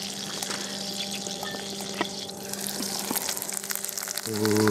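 Diced potatoes frying in melted pork fat in a frying pan, a steady sizzle with fine crackles.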